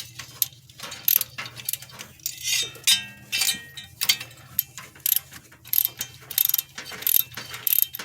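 Ratchet wrench clicking in short, irregular runs with metal tool clinks, as a spark plug is turned with a socket in a pickup's engine bay.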